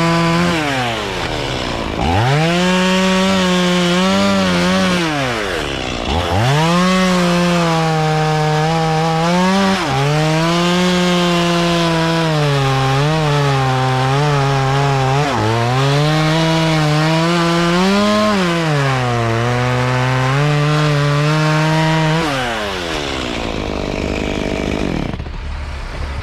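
Two-stroke chainsaw at full throttle bucking walnut logs, its pitch sagging under load in each cut and picking back up several times, then dropping to idle near the end. The chain is cutting freely, not binding.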